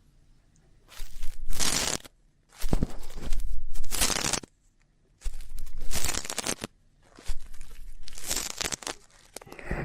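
Ear-cleaning ASMR sounds: a tool scratching and rubbing close against a microphone's ear, in four separate crackly strokes of one to two seconds each with short quiet gaps between.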